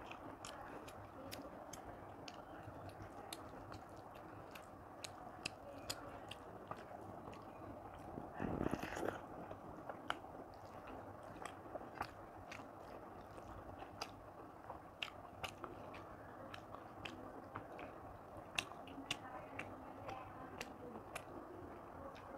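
Close-up mouth sounds of a person eating rice and chicken curry by hand: chewing with many sharp wet clicks and smacks. There is one louder, longer sound about eight and a half seconds in.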